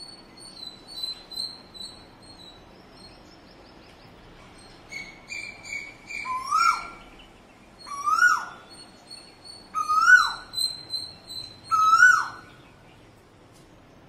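Backyard birds calling. Thin, high chirps come first, then a louder bird call repeats four times about two seconds apart, each note sliding up and then dropping sharply.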